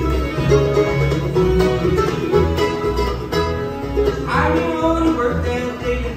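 Live bluegrass band playing an up-tempo tune: banjo and guitar picking over a steady bass line of about two notes a second.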